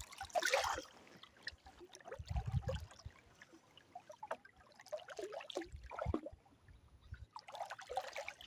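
Water trickling and splashing close by as a canoe and fishing net are worked, with low thuds twice in the middle.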